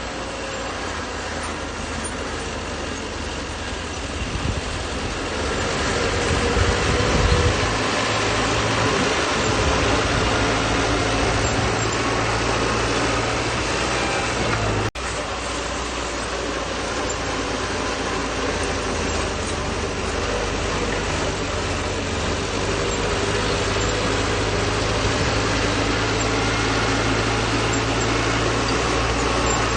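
Bulldozer's diesel engine running steadily while working, growing louder about five seconds in. The sound drops out for an instant about halfway through.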